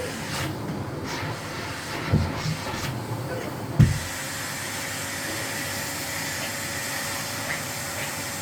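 Miele CX1 Blizzard bagless cylinder vacuum cleaner running with a steady hiss, with a couple of dull knocks in the first four seconds; the hiss fills out with a faint steady whine about four seconds in.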